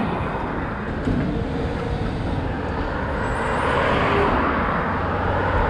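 Road traffic noise, with a passing vehicle swelling louder about four seconds in.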